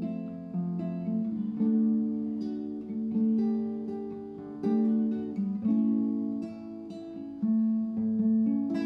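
Acoustic guitar music: chords and notes plucked about once a second, each ringing and fading before the next.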